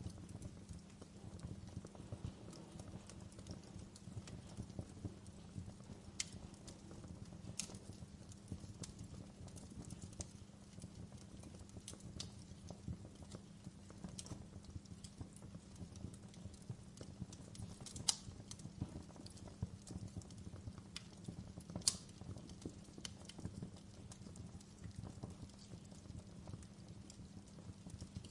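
Wood fire crackling: a steady low rumble under frequent small irregular pops, with a few sharper, louder pops scattered through.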